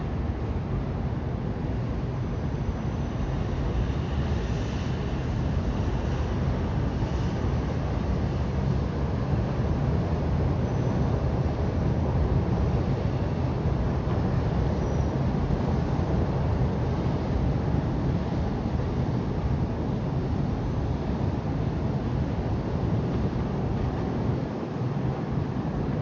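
Outdoor wind buffeting the microphone, giving a steady, fluttering low rumble.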